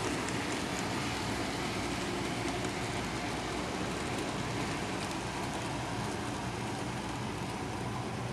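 N-scale model train running along the layout track: a steady whirr of motor and wheels on the rails, with a few faint clicks.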